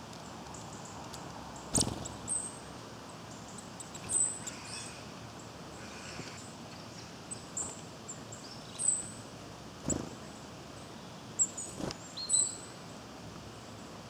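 Small woodland birds, tits and nuthatches, giving short, very high chirping calls every second or so. Three sharp knocks stand out, the loudest sounds.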